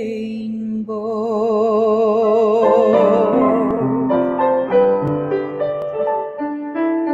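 A woman sings a long held note with wide vibrato on the word "rainbow" over piano accompaniment. The piano then carries on with a run of separate chord notes through the second half.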